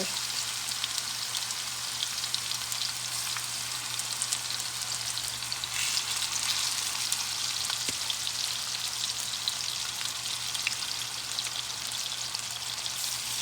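Chicken frying in a hot pan: a steady sizzle with many small crackles and pops.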